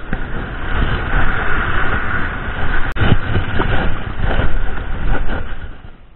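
Wind and breaking surf rushing on an action camera's microphone: a steady, loud noise with a heavy low rumble that eases near the end.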